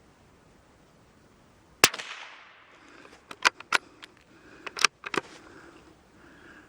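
A .22 LR bolt-action Brno (CZ 452) rifle fires a single CCI Stinger high-velocity round, one sharp crack with a short echo. A couple of seconds later the bolt is worked, a quick run of metallic clicks as the spent case is ejected and a new round is chambered.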